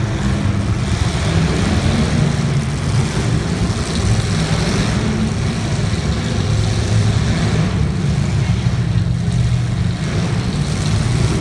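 A vehicle engine running at a steady speed: a continuous low drone that holds level throughout.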